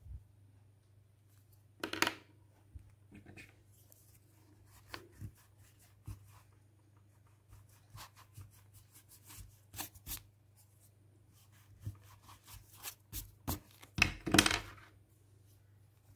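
Scattered rustles, taps and scrapes of paper and drawing tools being handled, loudest about two seconds in and again near the end, over a low steady hum.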